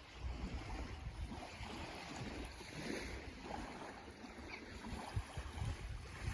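Black Sea waves washing in, with wind gusting across the microphone in an uneven low rumble.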